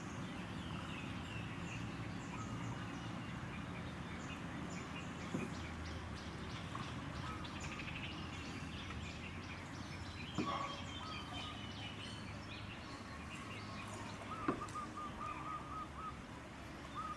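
Birds chirping and calling over a steady low background hum. In the last few seconds one bird gives a quick run of repeated lower notes, and a few short knocks sound in between.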